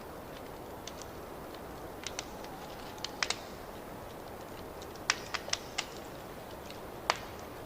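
Wood fire crackling in a fireplace: a steady low rush with irregular sharp pops, several in quick clusters in the middle and one strong pop near the end.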